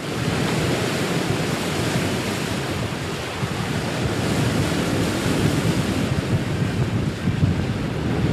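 Steady wind noise on the microphone mixed with open-ocean waves and water wash, an even rushing with no distinct events.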